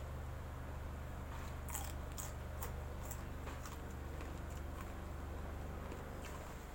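A person biting and chewing crunchy food close to the microphone, with a run of crisp crunches between about one and a half and four seconds in, over a steady low hum.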